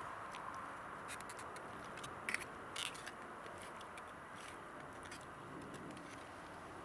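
Faint, irregular sharp clicks and crackles over a steady hiss, with a couple of louder clicks a little over two seconds in.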